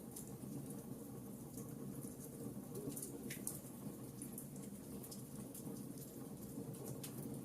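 Wood fire burning in a fireplace: a low, steady flame rumble with scattered small crackles and pops at irregular intervals.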